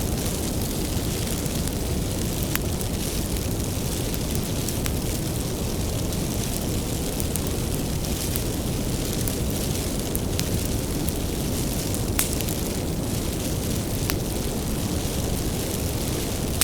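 Wood fire burning with a steady low rumble and an occasional sharp crackling pop every few seconds.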